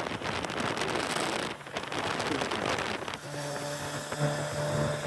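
A hiss of rain-like noise for about three seconds, then a vehicle engine starts to be heard running steadily with a low hum.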